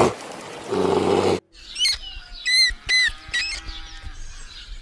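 A lion's low grunting roar trails off and cuts out abruptly; then comes a different animal's series of short, high chirping calls, each falling in pitch, about six of them.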